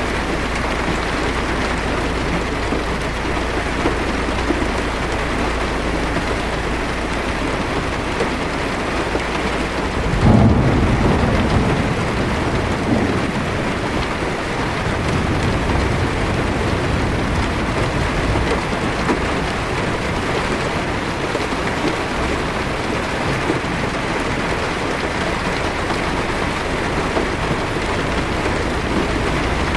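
Heavy rain falling on a car's roof and windshield, heard from inside the car, with a rumble of thunder about ten seconds in that swells and dies away over a few seconds.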